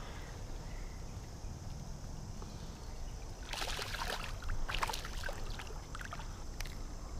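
Water splashing in several quick bursts about halfway through, as a hooked smallmouth bass thrashes at the surface while being landed.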